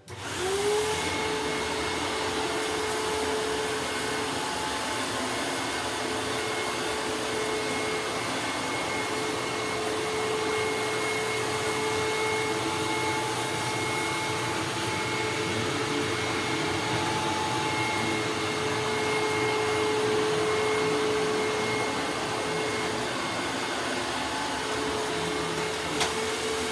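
Hoover WindTunnel upright vacuum cleaner switched on, its motor whine rising as it spins up, then running steadily with a constant whine and a strong hiss of air. It shuts off near the end.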